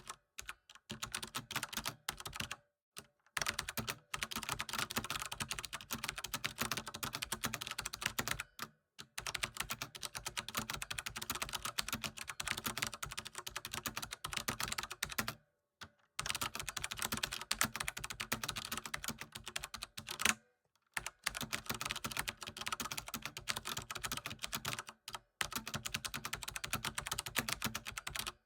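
Rapid, continuous typing on a computer keyboard, many keystrokes a second, broken by short pauses of under a second every few seconds.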